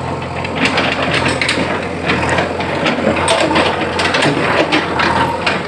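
Broken brick pieces clattering and crunching as pothole fill, a run of irregular sharp knocks, over a steady low hum.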